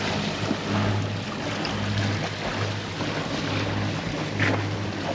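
Sailboat under way at sea: wind on the microphone and water noise, over a low steady hum that swells and fades about once a second. A brief louder rush comes about four and a half seconds in.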